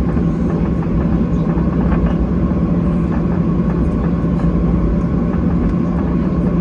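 Steady cabin noise of a Boeing 737-800 with its jet engines running: a low rumble under a steady hum, with faint scattered ticks.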